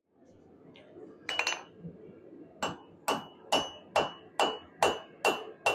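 Blacksmith's hammer striking a wrought iron bar on the anvil to straighten it: a quick rattle of blows about a second in, then a steady run of blows a little over two a second, each with a short metallic ring.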